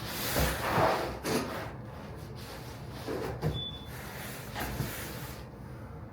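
Vinyl plank flooring being handled and cut: a scraping sweep about a second long at the start, then a few shorter scrapes and knocks.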